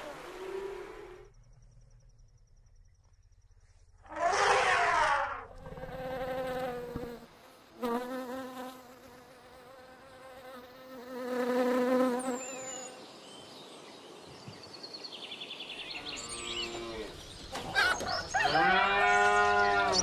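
Bumblebee buzzing around flowers in several passes that swell and fade, loudest a few seconds in and again about halfway through. Near the end, a cow moos.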